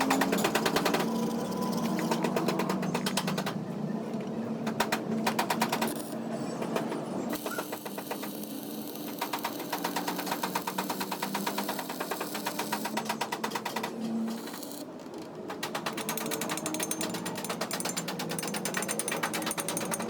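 Rapid mechanical rattling, a fast run of clicks, in several long bursts with short breaks over a steady machine hum, typical of a power tool at work on truck gear parts.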